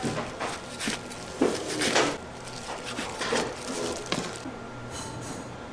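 Kitchen clatter: dishes and utensils knocking and clinking in irregular, separate hits, with faint voices behind.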